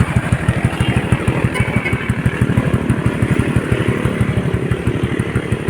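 Honda motorcycle engine running steadily with an even, fast exhaust pulse and no revving.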